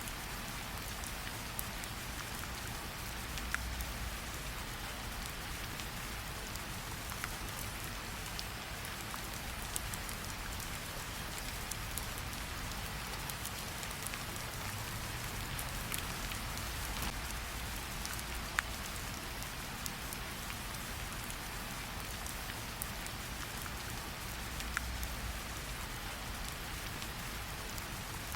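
Rain and campfire ambience: a steady hiss of rain with scattered sharp pops and crackles throughout, and a soft low rumble that swells a few times.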